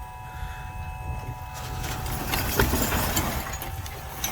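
Truck engine running low and steady. From about a second and a half in, a rush of noise with scattered knocks swells over it, with one sharper knock in the middle, then fades.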